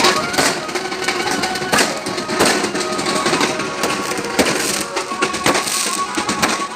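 Firecrackers going off in a rapid, irregular string of sharp cracks and pops, with music playing underneath.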